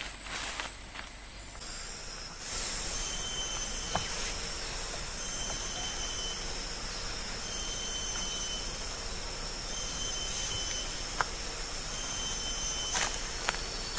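Rainforest insect chorus: a loud, steady, very high hiss that comes in suddenly about a second and a half in. Short high calls repeat every two to three seconds over it.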